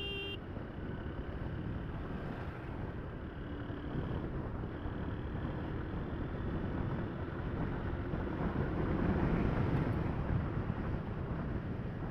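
Motorcycle ride at about 60–70 heard through a helmet-mounted mic wrapped in sponge: steady wind and road rush with the engine running underneath. It grows louder about eight seconds in.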